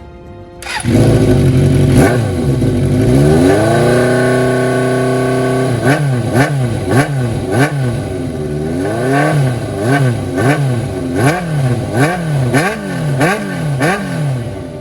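Suzuki GSX400 Impulse inline-four motorcycle engine through a Yoshimura short exhaust, loudly revved up and held high, then blipped rhythmically, the revs rising and falling about one and a half to two times a second.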